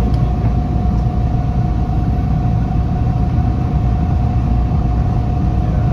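Subway train running between stations, heard from inside the car: a steady low rumble with a constant whine running through it.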